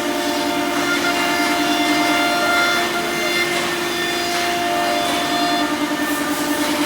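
Horizontal spindle of a CNC router running at speed and cutting lock holes into a wooden door: a steady whine of several tones over the noise of the cutter in the wood. After about six seconds the sound starts to waver.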